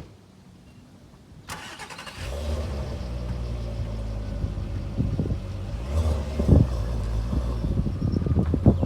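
Turbocharged R32 engine being started: cranking about a second and a half in, catching shortly after and settling into a steady, deep idle, with a few brief louder peaks later on.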